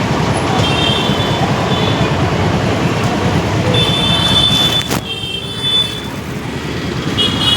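City road traffic heard from a moving motorcycle: a dense rumble of engine and wind on the microphone, with short high beeps several times. The rumble drops suddenly about five seconds in.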